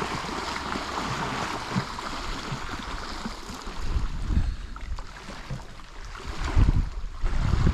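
Wind outdoors: a steady hiss, with gusts buffeting the microphone in heavy low rumbles about halfway through and again, loudest, near the end.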